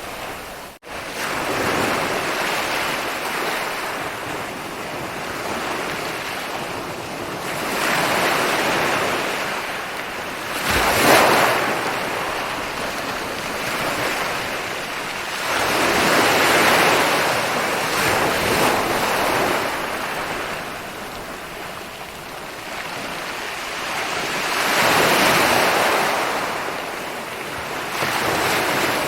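Ocean waves rolling in and breaking on a shore: a steady wash that swells into a louder crash every several seconds, four times in all. There is a brief dropout in the sound about a second in.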